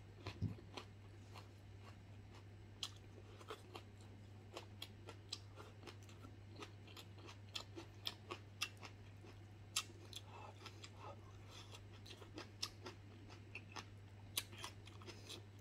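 A person chewing close to the microphone, eating soft, gelatinous stewed beef-foot skin and green chili: irregular wet smacks and clicks of the mouth, a few every second, over a steady low hum.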